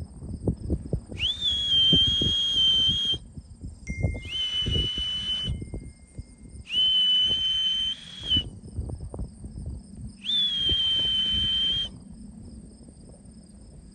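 A whistle blown in four long blasts, each starting with a quick upward slide to a steady high note, with breath noise around the tone. Crickets chirp steadily behind it.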